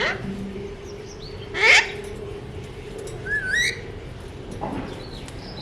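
Pet parakeet calling: two loud, harsh squawks about a second and a half apart, then a wavering whistle about three seconds in and a short falling call near the end. A faint steady hum runs underneath.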